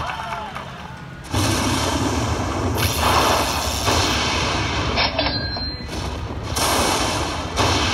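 Slot machine sound effects: a run of loud booming bursts repeating about once a second, starting about a second in, as the machine plays out a bonus win.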